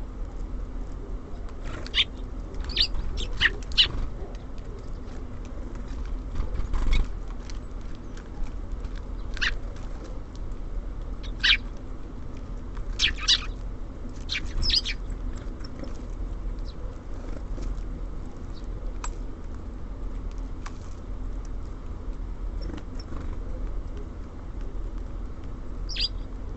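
Small songbirds at a feeder giving short, sharp chirps and calls in scattered bursts, thickest early and through the middle, with a single call near the end. Under them runs a steady low rumble.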